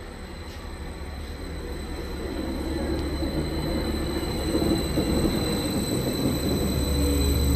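A train moving through the station and drawing closer, its low rumble growing steadily louder, with a thin, steady high squeal from the wheels on the rails.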